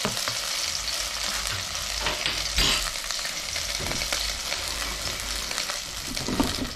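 Sliced garlic and onion sizzling steadily in hot oil in a pot, the garlic already fried brown as the base for a curry. A couple of brief knocks, the clearest about two and a half seconds in.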